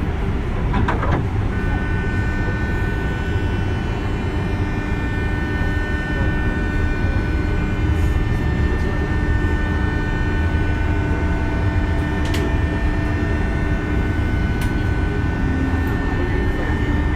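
JR West 201 series electric train running: a steady rumble of wheels on rail, with a steady high electrical whine from the traction equipment setting in about a second and a half in. A few sharp clicks come through along the way.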